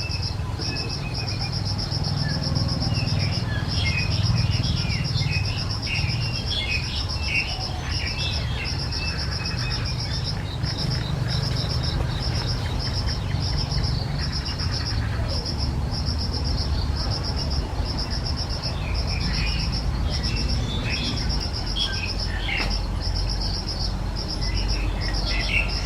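A cricket-like insect trilling steadily in a high, evenly pulsed note, with birds chirping in clusters about two seconds in and again near the end, over a low rumble.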